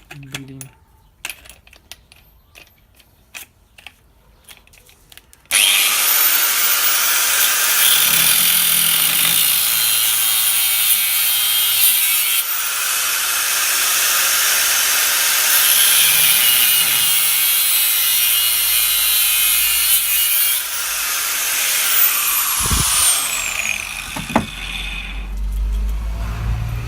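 Angle grinder cutting into a steel differential bearing race to open it up for inspection. A few light clicks of handling come first, then about five seconds in the grinder starts and cuts steadily for some fifteen seconds, and near the end its whine falls away as the disc spins down.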